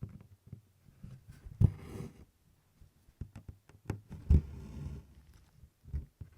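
A needle tapping through taut 24-count Congress cloth, with irregular soft taps and knocks. After the two loudest, about one and a half and four and a half seconds in, comes a short rasp as the DMC floss is drawn through.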